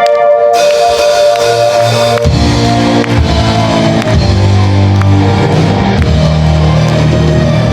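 Instrumental rock band music: held keyboard chords, then bass and electric guitar with a drum kit come in about two seconds in and keep playing.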